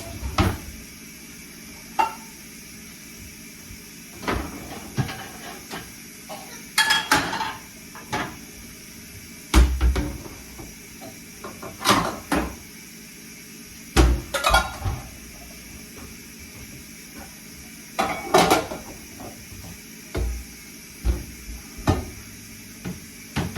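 Dishes and cutlery clinking and clattering as they are handled, in separate knocks every second or two, some with a duller thump.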